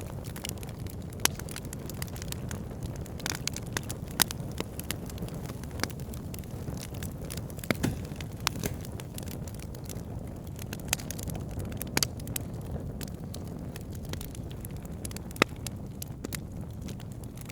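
Wood fire burning in a fireplace: a steady low rush of flames with frequent crackles and pops, and a few louder snaps scattered through.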